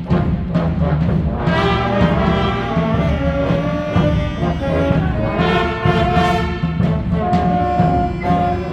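Orchestral music led by brass, with trombones and trumpets playing sustained chords over a strong low bass line.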